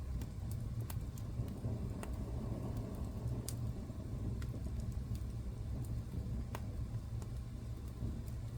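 Wood fire burning in a fireplace: a steady low rumble of the flames with sharp crackles and pops at irregular moments.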